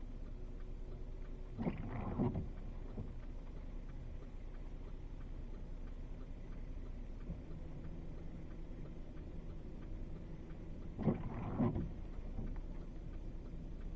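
Car windshield wipers on an intermittent setting, sweeping twice about nine seconds apart, each time a quick stroke across and back. Under them runs a steady low rumble inside the car.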